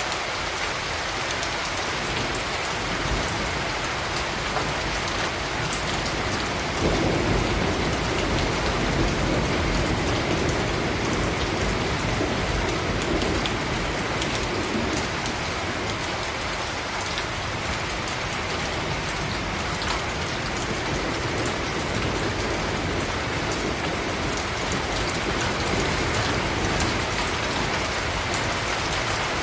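Steady rain falling on hard urban surfaces, with many individual drops ticking close by. About seven seconds in, a low rumble of distant thunder swells and fades over several seconds.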